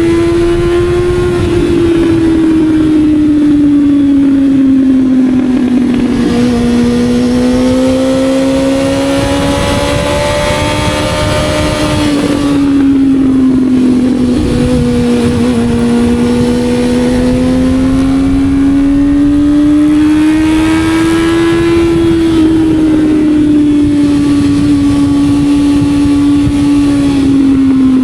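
Sport motorcycle engine running under way, its pitch rising and falling slowly several times as the revs go up and down, with wind rumble on the microphone.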